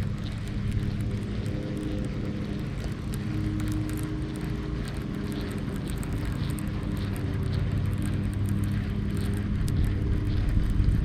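A steady low engine hum, with faint light ticking over it.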